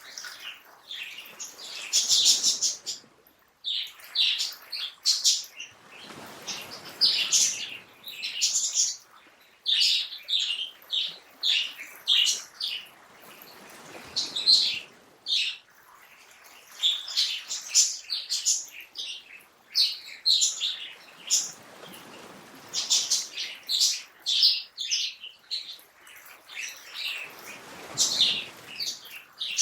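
Songbirds chirping and singing in quick, overlapping bouts of high notes, with short pauses between bouts. Under them a soft rushing noise swells and fades every several seconds.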